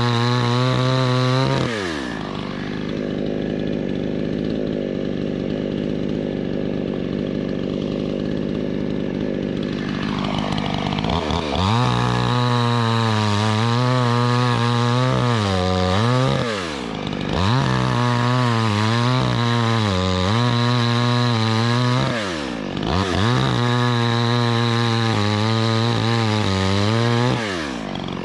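Two-stroke gasoline chainsaw at high revs that drops to idle about two seconds in, idles for several seconds, then is revved up to high speed three times, each run lasting about five seconds with the pitch wavering, dipping briefly between runs and falling back to idle near the end.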